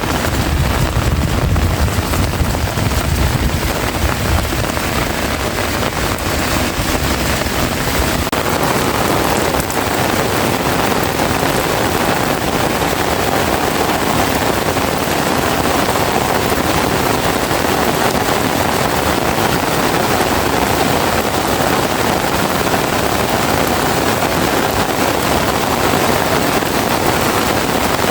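Heavy rain pouring down in a steady hiss. For the first eight seconds or so, strong wind rumbles on the microphone, then dies away, leaving the rain alone.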